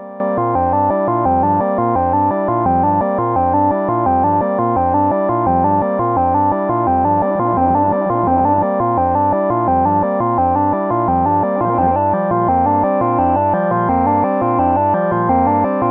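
Moog Subharmonicon analog synthesizer playing a sequenced patch, its two step sequencers running against each other. A fast repeating pattern of pitched notes over pulsing bass notes starts abruptly just after the beginning, as a held tone gives way.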